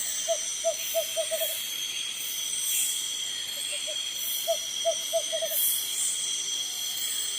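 Tropical forest insects trilling and buzzing steadily, with regular swells of high hiss. An animal calls twice over this, each time a run of short mid-pitched notes that come faster and faster.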